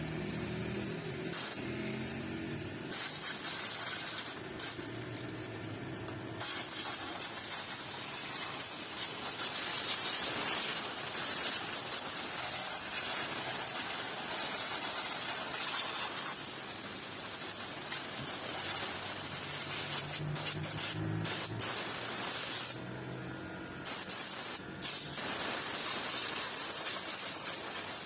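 High-pressure spray gun at a car wash, hissing in long bursts. It stops briefly near the start, again about five seconds in, and again near the end, and a machine hum is heard in those pauses.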